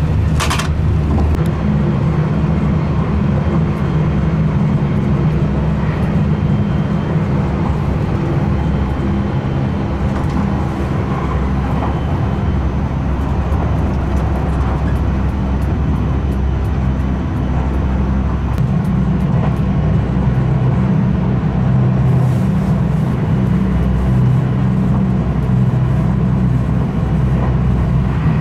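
Steady low rumble of a Haruka limited express train running at speed, heard from inside the passenger cabin. A short, sharp noise about half a second in.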